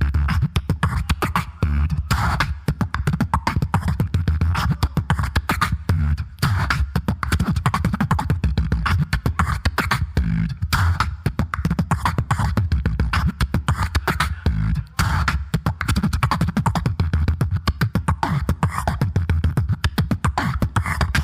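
Solo beatboxer performing through a microphone and PA: fast, dense vocal drum patterns of kick, snare and hi-hat sounds over a heavy bass line, in a steady rhythm.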